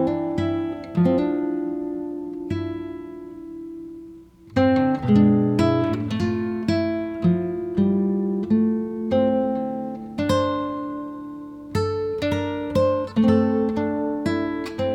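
Background music: acoustic guitar played with plucked notes and strums, with a short pause about four seconds in before the picking resumes.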